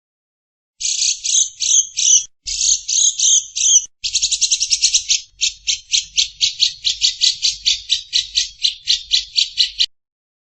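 A bird's harsh, buzzy chattering call starts about a second in, first as a few ragged phrases, then as an even rapid series of about five notes a second that stops shortly before the end.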